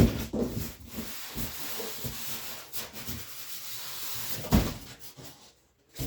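Cardboard box and packing being handled and rummaged through: a continuous scratchy rustle, with a sharp knock at the start and another thump about four and a half seconds in.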